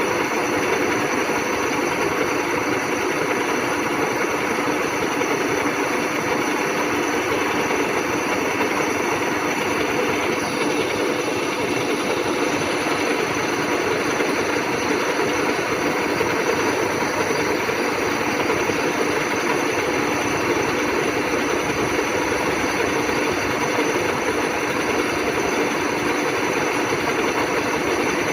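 WMW Heckert GFLV 250 x 2000 thread milling machine running with a steady, unchanging mechanical hum.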